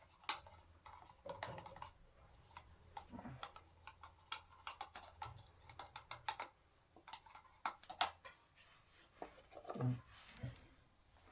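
Irregular light clicks, taps and knocks of small hard objects being handled, with a louder knock about 8 seconds in and another near 10 seconds.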